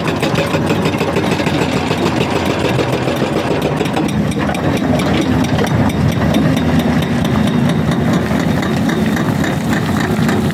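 Excavator's diesel engine running steadily under a continuous, even drone, with no separate knocks or impacts.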